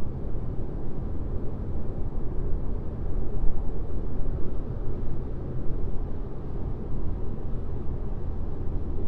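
Steady low rumble of a car driving on a highway: tyre and road noise with engine hum, even throughout.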